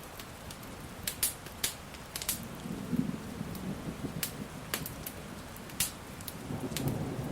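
Wood fire crackling with sharp pops, about eight in all, over a steady hiss of rain. A low thunder rumble swells briefly about three seconds in and builds again near the end.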